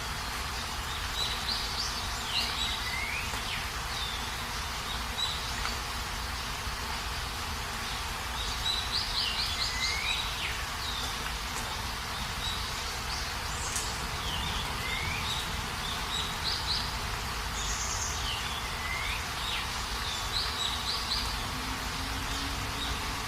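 Steady rain hiss with a songbird singing a short repeated phrase every few seconds, a quick run of high notes ending in a falling note.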